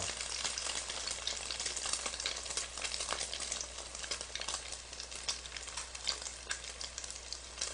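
Battered pollock fillets frying in hot oil: a steady sizzle with scattered crackling pops.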